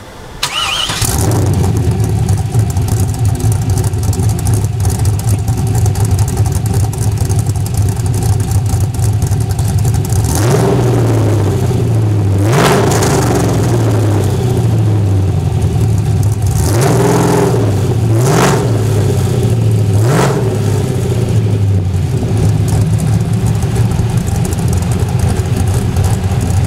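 LS1 5.7 L V8 in a Camaro with a TSP 231/237 cam, long-tube headers, off-road Y-pipe and a 3-inch Magnaflow bullet muffler, idling with an uneven, loping rhythm through the exhaust. From about ten seconds in it is blipped about five times, each rev rising and dropping straight back to idle.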